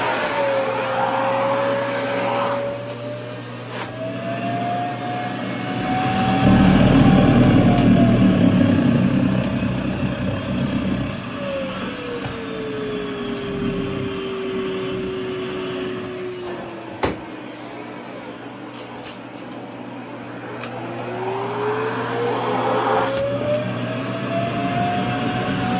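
Vacuum cleaner running with its motor whine slowly falling and rising in pitch as the suction draws in and is partly blocked by skirt fabric. A louder low rushing comes from about 6 to 10 seconds in, and there is a sharp click about 17 seconds in.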